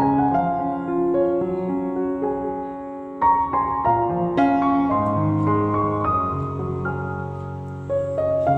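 Background piano music: a slow melody of held notes, with a new phrase starting about three seconds in.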